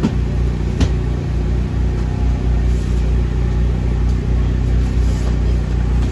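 Engine running steadily with a low, even hum, with two sharp knocks, one at the start and one just under a second in.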